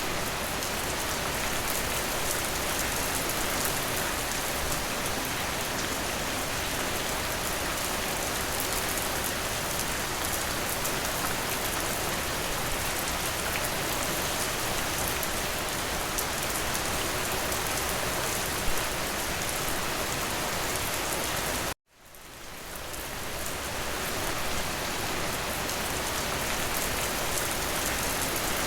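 Steady, even rain falling. About three quarters of the way through it cuts out abruptly for an instant, then fades back in over a couple of seconds.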